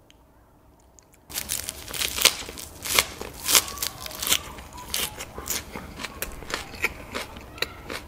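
A lettuce wrap of pork belly (samgyeopsal) fried crisp in oil being bitten and chewed. A quick, irregular run of loud crunches and crackles starts about a second in.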